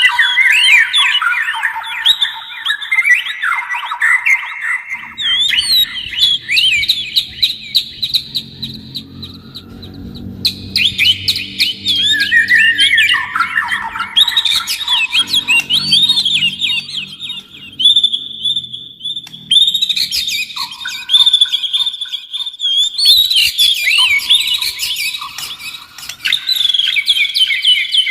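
Copsychus songbird, of the kind of oriental magpie-robin or white-rumped shama, singing a long, varied song of rapid whistles, slurs and trills with no break.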